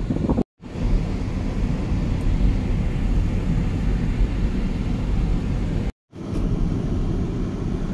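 Steady low rumble of a vehicle on the move, with road and wind noise. The sound cuts out to silence briefly twice, about half a second in and again near six seconds.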